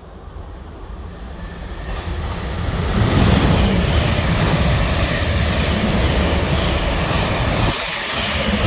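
Train passing close by on the line, a rumbling rush of wheels and running gear that builds over the first three seconds, then holds steady, easing briefly near the end.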